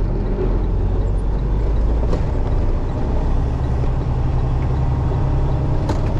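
Truck engine running, heard from inside the cab as a steady low drone whose pitch shifts slightly partway through, with a couple of faint clicks.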